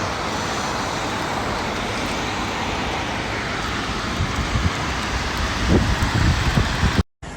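A steady, loud rush of water, with uneven low rumbles of wind buffeting the microphone over the second half, cut off abruptly near the end.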